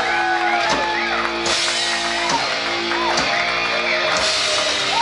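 Live rock band playing loud music: electric guitar with held notes that bend up and down in pitch, over a full band with a few sharp drum hits.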